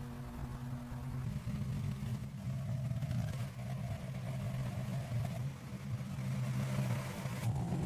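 Restored armored truck's engine running steadily with a low, even rumble.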